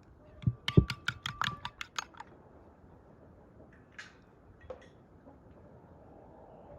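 A quick run of about ten sharp knocks, roughly five a second, lasting under two seconds, followed by two faint clicks.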